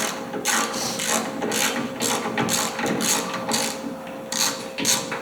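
Hand ratchet wrench clicking in short runs, roughly two clicks a second, as a hood bolt is backed out.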